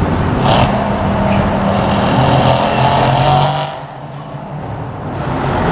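V8 car engine pulling hard under acceleration with rising revs, then the throttle is lifted about four seconds in and the sound drops off, before the engine comes back on near the end.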